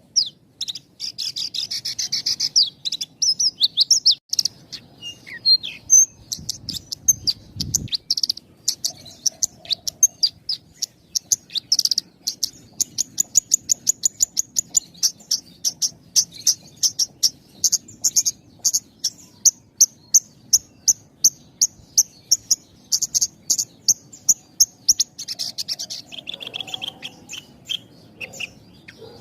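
Javan bush lark (branjangan) singing a long, continuous song of rapid short high notes strung together with only very brief pauses.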